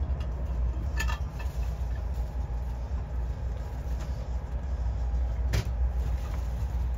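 Steady low rumble of a moving Amtrak passenger train heard from inside the car, with two sharp clicks, one about a second in and another a little past the middle.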